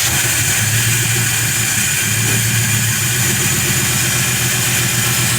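Truck engine idling steadily just after starting on fresh spark plugs and plug wires, running smooth after a tune-up meant to cure its misfiring.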